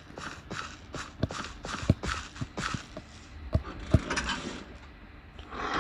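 A quick regular series of light taps or knocks, about three a second, followed by a few sharper thumps about midway.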